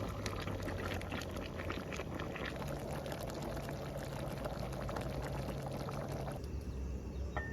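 Liquid being poured in a steady stream, splashing and gurgling, which stops abruptly about six seconds in; a short clink of glass or metal follows near the end.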